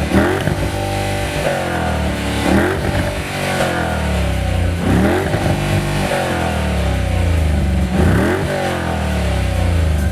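2014 Dodge Challenger R/T's 5.7-litre HEMI V8 revved several times in quick blips, its pitch rising and falling back to a low idle between them.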